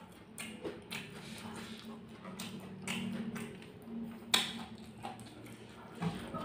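Close-miked chewing of a mouthful of rice with sambal terasi: soft wet mouth clicks and lip smacks every second or so, with one sharp smack about four seconds in.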